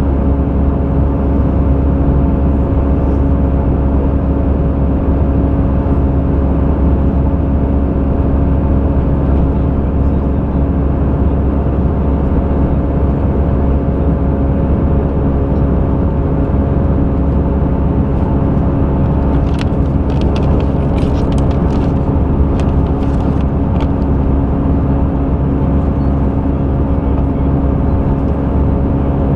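Steady drone of an Airbus A320 in flight heard inside the passenger cabin: engine and airflow noise with a low rumble and a few steady hums. A short run of faint clicks about two-thirds through.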